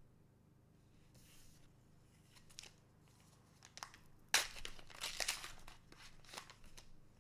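A trading-card booster pack's wrapper being torn open and crinkled. A few light rustles come first, then a burst of tearing and crinkling from about four seconds in.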